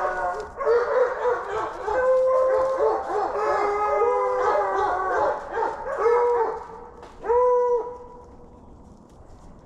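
Deer hounds baying in long, overlapping drawn-out howls, then falling quiet about eight seconds in. This is the voice of hounds opening on a freshly crossed deer's track.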